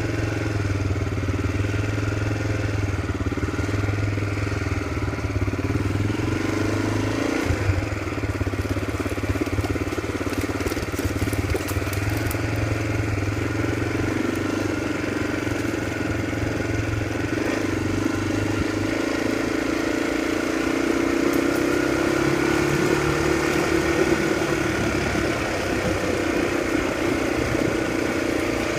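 Bush motorcycle's engine running while the bike is ridden, steady throughout. Its pitch dips briefly about seven seconds in and rises gradually a little past the two-thirds mark as the revs climb.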